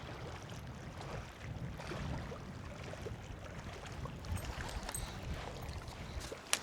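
Wind buffeting the microphone, a steady low rumble, with faint scattered ticks and one sharp click near the end.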